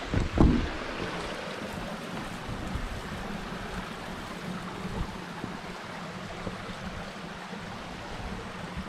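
Steady rush of a creek or waterfall, an even wash of water noise. About half a second in comes a brief loud low thump or buffet.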